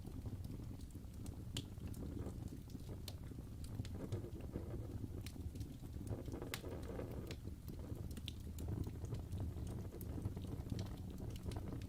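Wood fire in a fireplace burning steadily: a low rumble of flames with frequent irregular sharp crackles and pops from the burning logs.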